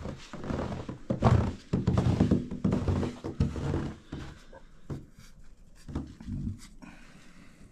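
French bulldog panting, loud and irregular for about four seconds, then quieter, with a few light knocks.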